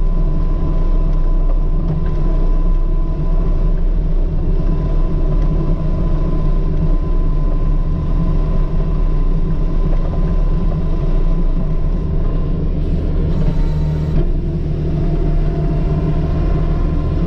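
A loader's diesel engine runs steadily, a low rumble with a thin steady tone above it, as the machine works at ice on a snow-cleared lot.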